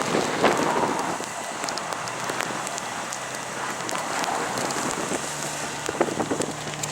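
Snow hissing and pattering against a four-wheel-drive SUV as it plows through deep unplowed snow, with scattered small ticks and the engine running faintly underneath.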